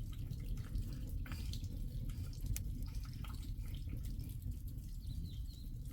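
Rain falling steadily, with scattered drops dripping and tapping irregularly over a constant low rumble.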